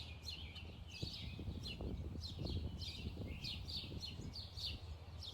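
Small birds chirping continuously, a quick series of short falling chirps a few times a second, over a low rumble of wind on the microphone that swells about a second in and eases after the middle.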